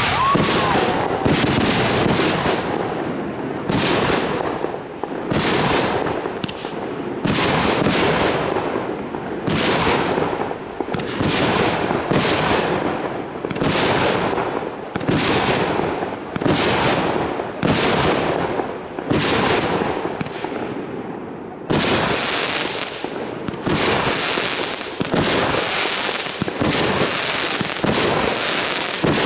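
Consumer firework battery firing shot after shot in a steady rhythm, about one loud bang a second, each bang trailing off briefly; the shots come faster near the end.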